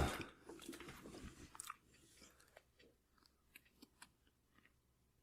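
A person chewing close to a microphone: faint crunches and small mouth clicks, busiest in the first second and a half, then only a few scattered ticks.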